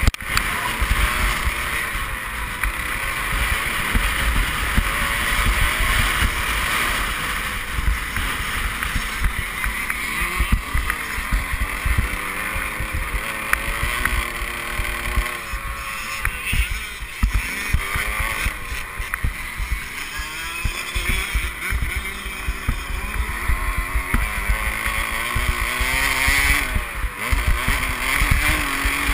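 Motocross bike engine heard from the rider's helmet camera, revving up and down repeatedly as the bike accelerates and shifts, with heavy wind rumble on the microphone.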